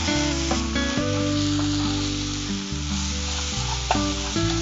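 Grated raw mango, onions and masala sizzling in hot oil in a wok while being stirred and sautéed with a wooden spatula, fried dry without added water. Steady background music plays underneath.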